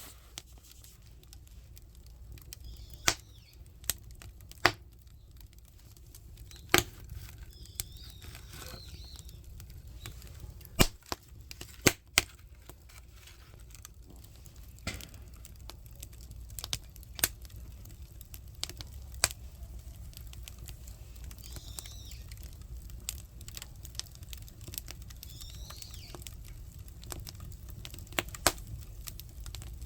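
Firewood burning in the firebox of a traditional Korean clay stove (buttumak): irregular sharp crackles and pops over a low, steady rumble of the fire, with two loud pops close together about eleven and twelve seconds in.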